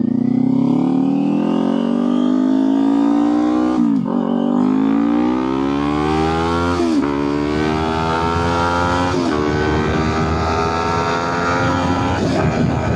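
Kawasaki Ninja 400's parallel-twin engine accelerating hard through the gears: the engine note climbs, drops sharply at each upshift and climbs again, four shifts in all.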